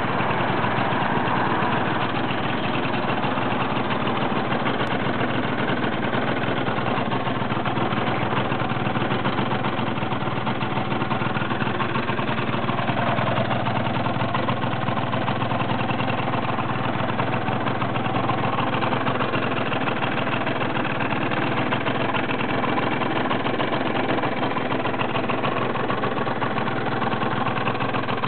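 Honda Zoomer scooter's swapped-in Yamaha 4VP two-stroke engine, bored up to 112cc, idling steadily.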